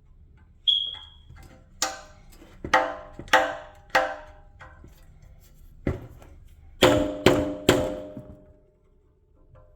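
Hammer blows on metal: about nine sharp, ringing metal-on-metal strikes in two bursts, tapping a tool against the rear hub's dust cap to work it loose.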